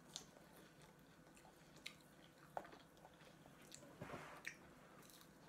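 Faint chewing: soft, scattered mouth clicks and smacks of someone eating, with a slightly louder one about four seconds in.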